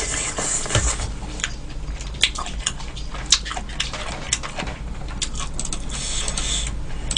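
Close-miked chewing of a mouthful of beef seaweed soup and sticky rice: irregular small clicks and mouth noises.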